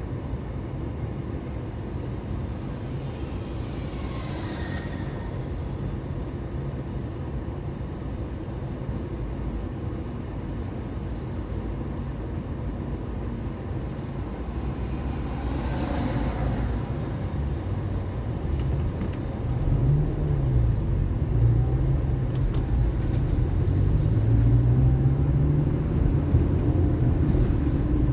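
Car driving through city traffic: a steady low engine and road rumble. Other vehicles pass briefly twice, and in the last third the engine note grows louder and rises and falls in pitch as the car accelerates and changes gear.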